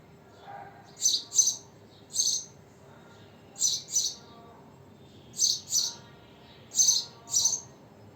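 House sparrow chirping: short, loud, high-pitched chirps, mostly given in pairs, repeating about every second and a half.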